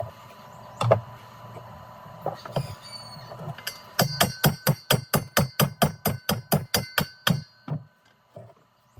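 A single sharp knock, then a rapid even run of about eighteen ringing metallic strikes, about six a second for some three seconds, like a hammer rapped on metal.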